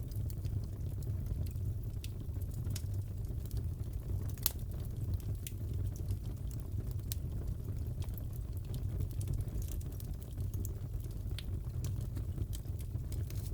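Fireplace fire crackling: a steady low roar of the flames with scattered sharp pops and snaps, one louder pop about four and a half seconds in.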